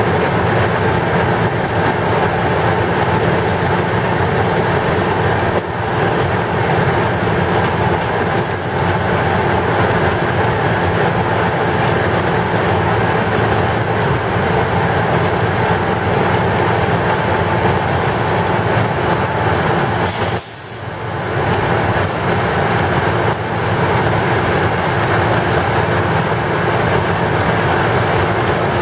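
Heavy railway track-repair machinery running steadily, a loud continuous mechanical din with a brief drop about twenty seconds in.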